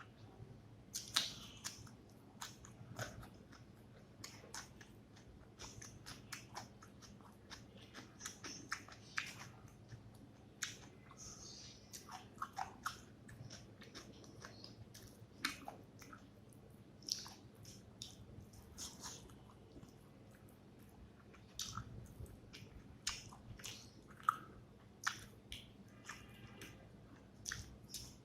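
Close-up mouth sounds of eating rice with fish curry: wet chewing with many small, irregular smacks and clicks, and an occasional crunch.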